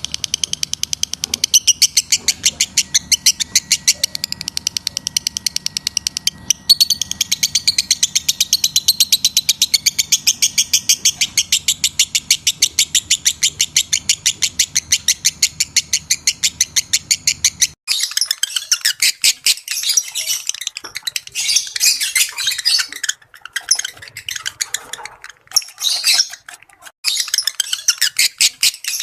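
Lovebirds chattering: a rapid, even run of sharp high chirps, then, about two-thirds of the way through, a sudden change to irregular bursts of squawky chirps. These are lovebird calls used as a lure to bring other lovebirds into breeding condition.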